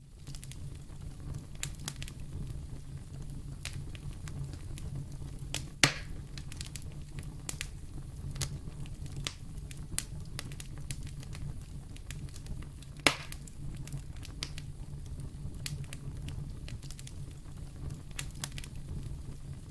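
Wood fire crackling in a fireplace: a steady low rumble of flames under many small snapping crackles, with two louder pops about six and thirteen seconds in.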